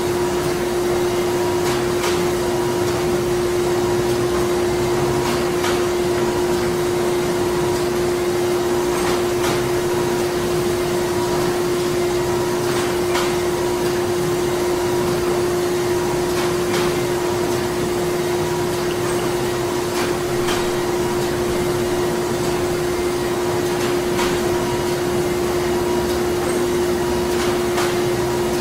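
Printing-factory machinery running steadily: a constant machine hum over an even mechanical noise, with a light regular click about every two seconds.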